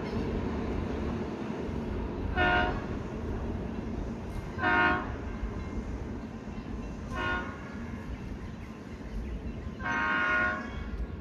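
Long Island Rail Road train sounding its multi-note horn four times, short blasts with the last one the longest, over the steady rumble of the train.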